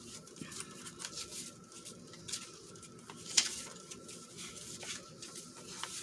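Paper rustling with light scattered clicks and taps as printed photos and scraps of paper are handled and shuffled, with one sharper click about three and a half seconds in.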